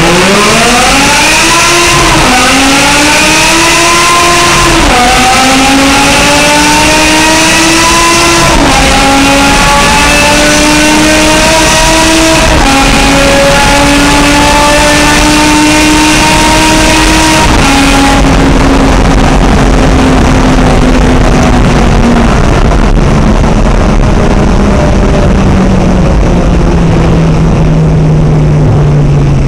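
BMW M6 with an aftermarket exhaust accelerating hard through the gears. The engine note climbs and drops sharply at five quick upshifts, then settles into a steady, slowly falling drone as the car backs off. It echoes in a tunnel.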